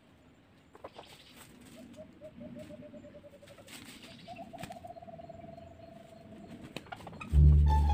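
Two low, rapidly pulsed bird trills, each lasting a second or two, with a few soft rustles and clicks in dry leaves. Loud background music with a heavy bass comes in near the end.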